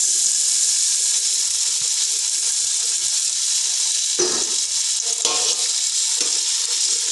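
Green peas sizzling steadily in hot oil with lightly browned onions in a cooking pot, just after being tipped in. A couple of brief utensil knocks against the pot about four and five seconds in.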